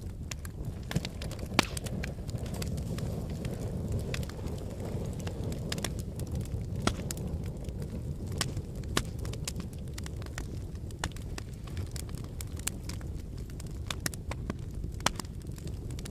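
Fire burning in a fireplace: a steady low rush of flames with irregular crackles and sharp pops, the loudest pop about a second and a half in.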